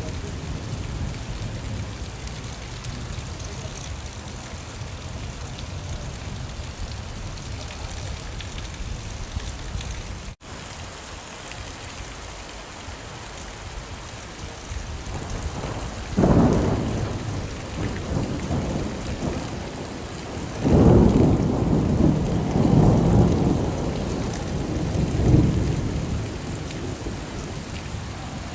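Steady rain falling during a thunderstorm, with thunder rumbling in the second half: a sudden clap and rumble, then a longer rolling rumble a few seconds later. The rain cuts out for an instant just before the middle.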